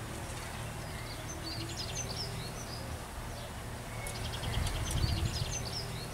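Small birds chirping in clusters of quick rising and falling notes, over a steady low rumble that swells slightly about five seconds in.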